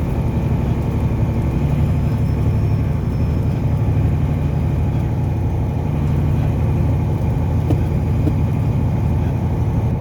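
Car driving at a steady speed: a continuous, even rumble of engine and tyres on the road.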